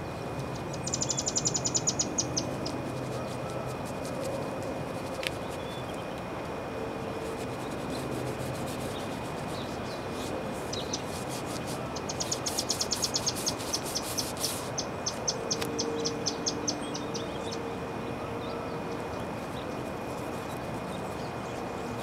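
A bird chirping in two quick runs of short, evenly spaced high notes, one near the start and a longer one past the middle. Underneath are a steady outdoor background hum, a constant thin high tone and a few light clicks.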